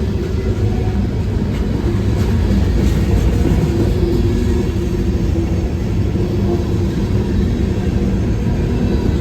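CSX diesel freight train running: a steady, loud low rumble with engine tones that shift in pitch.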